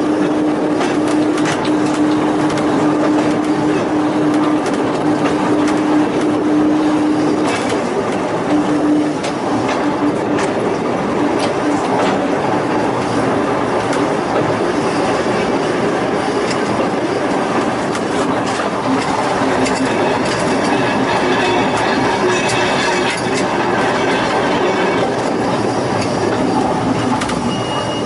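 A narrow-gauge Volk's Electric Railway car running along the track, its wheels clicking over the rail joints. A steady hum fades out about nine seconds in, and higher squealing tones come in later.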